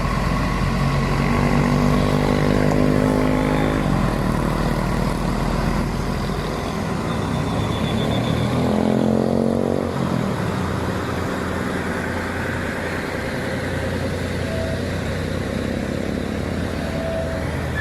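Road traffic pulling up a steep hill: a steady rumble of vehicle engines, with one engine standing out clearly near the start and another about halfway through as they pass.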